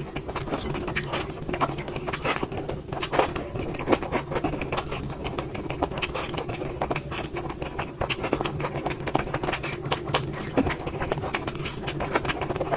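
Someone eating: a steady stream of small clicks and smacks from chewing and handling food, over a constant low hum.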